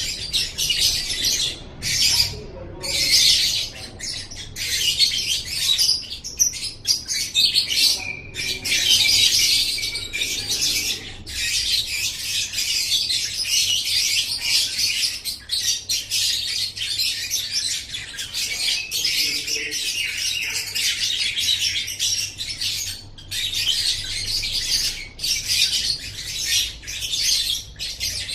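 Lovebird singing: a long, rapid, high-pitched chattering trill that runs on almost without a stop, broken only by a few brief pauses.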